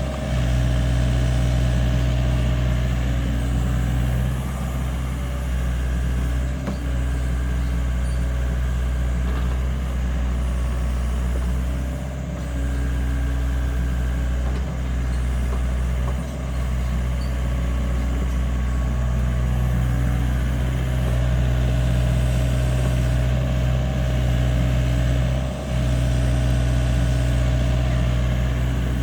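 LiuGong mini excavator's diesel engine running steadily, with a few brief dips in level.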